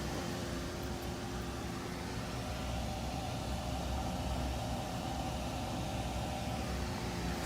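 Gas furnace running with a steady low hum.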